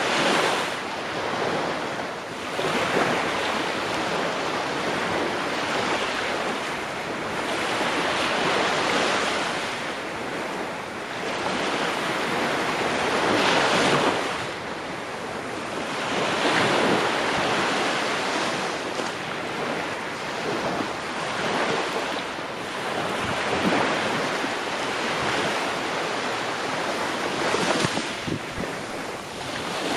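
Ocean waves breaking and washing on the shore, the surf swelling and ebbing every few seconds, with wind in the background.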